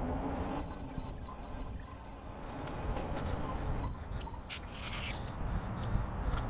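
Bicycle brakes squealing with a high, thin whine, twice, each lasting under two seconds, over a low road rumble.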